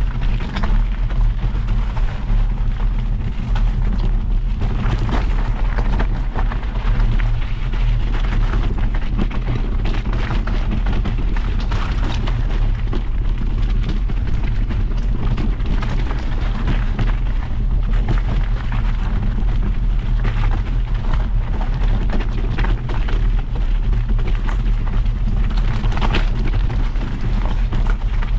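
Continuous heavy wind buffeting on a moving camera's microphone, with road rumble underneath, during a fast descent down a road.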